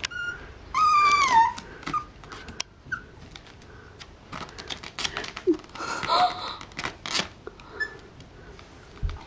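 Small dog whimpering: one high whine falling in pitch about a second in, then a few short faint squeaks among scattered clicks and rustling.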